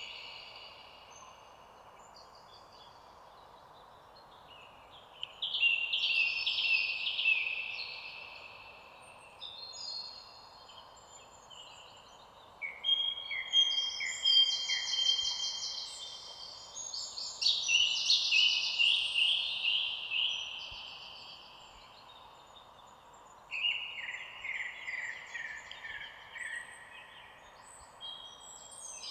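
Songbirds singing in phrases of a few seconds each, with short pauses between them, over a faint steady background hiss.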